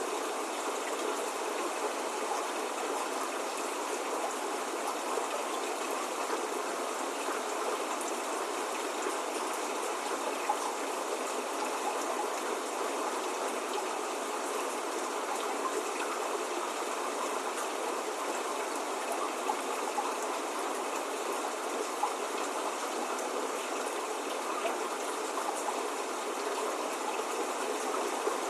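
Steady spring rain falling, an even hiss of drops with faint scattered patters and no thunder.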